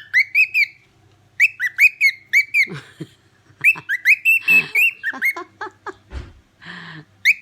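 Cockatiel chirping in quick runs of short, high, up-and-down whistled notes, three or four bursts with short pauses between them. A brief low thump comes near the end.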